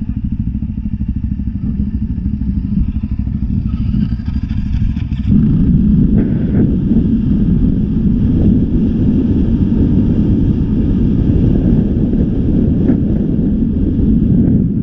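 Dirt bike engine running steadily, then getting much louder about five seconds in as the bike pulls away and rides along a rough dirt track.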